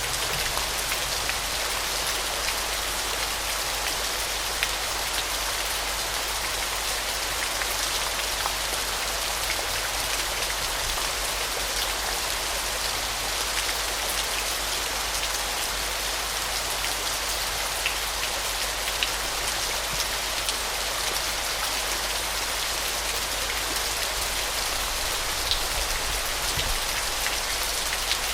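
Waterfall: a steady, even rush of splashing water, dotted with small droplet splashes.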